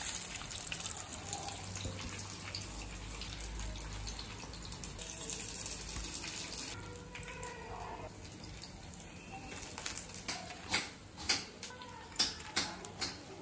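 Steady hiss of egg bondas deep-frying in hot oil, fading about seven seconds in; later, a run of sharp clicks and knocks.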